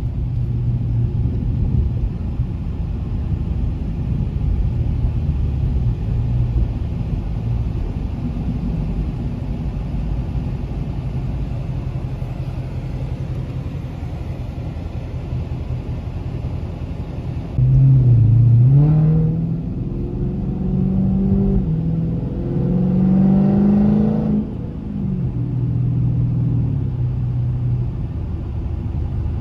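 Dodge Challenger Scat Pack's 392 HEMI V8 engine running steadily while driving. Past the middle it gets suddenly louder under throttle, with the pitch rising twice, then drops back to a steady run.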